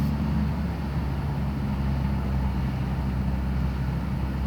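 A vehicle engine running steadily, a low even drone with no change in pitch.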